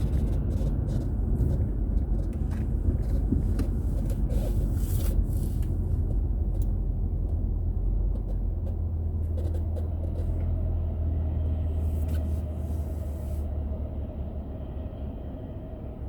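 A car's road and engine rumble heard through a dashboard drive recorder inside the cabin, with scattered sharp clicks over the first half. The rumble eases off in the last few seconds.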